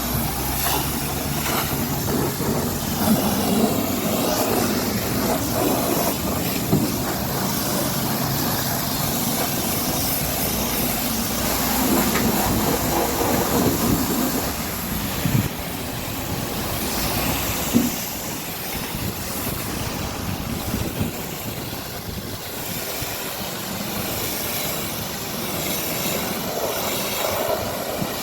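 Steady hiss of a high-pressure water jet spraying, with a low machine hum underneath and a few brief knocks.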